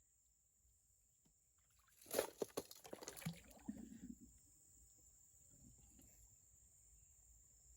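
Water sloshing and splashing for about two seconds, with a few sharp knocks in it, about two seconds in. A faint steady high-pitched tone runs underneath.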